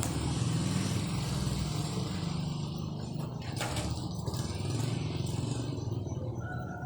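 A small engine running steadily with a low rumble. Near the end a bird, an oriental magpie-robin, begins a short whistle.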